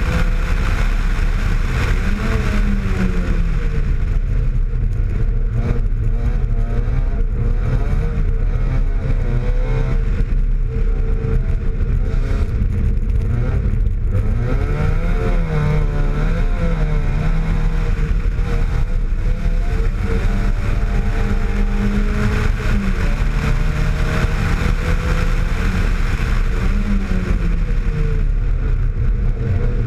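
Opel Astra GSi race car's four-cylinder engine running hard at speed on a hillclimb, its pitch climbing and dropping again and again as the driver accelerates, shifts gear and lifts for bends.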